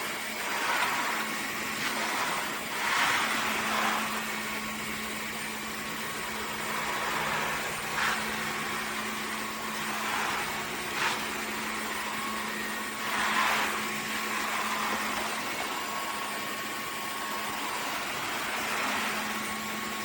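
Dreame H12S wet-dry vacuum mop running with a steady motor hum, with recurring swishes.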